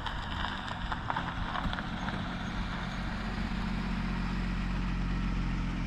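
A vehicle being driven, its engine running at a steady low hum with road noise.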